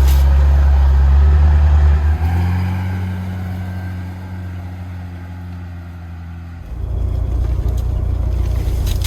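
Lada Niva engine running hard, then easing off about two seconds in and fading. Near seven seconds it picks up again suddenly and holds steady.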